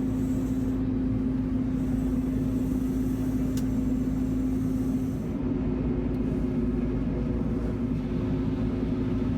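Heavy diesel machinery running steadily: a constant engine drone with a strong hum that shifts slightly about five seconds in, and one short click near the middle.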